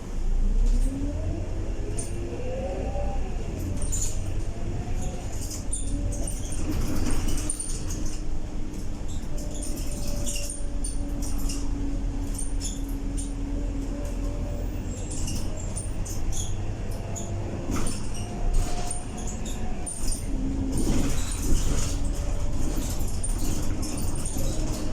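Scania K230UB bus under way, heard from inside: a drivetrain whine rises in pitch as the bus accelerates over the first few seconds, then holds steady over a low engine rumble. Short rattles from the bus body come through it.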